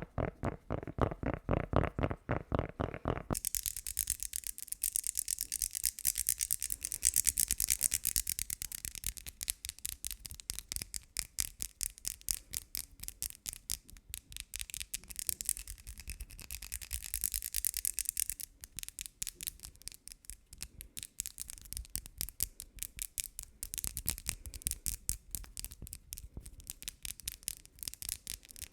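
Rapid, rhythmic rubbing strokes close to the microphone, several a second, like a brush being scrubbed quickly. For the first three seconds or so they sound deep and full, then they turn suddenly thin and hissy.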